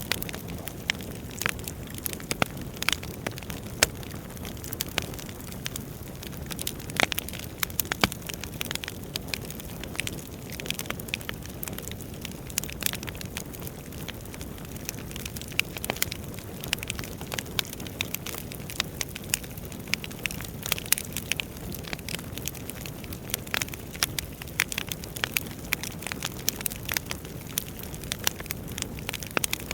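Wood fire burning in a fireplace: a steady low rush of flames with frequent, irregular sharp crackles and pops of the burning logs.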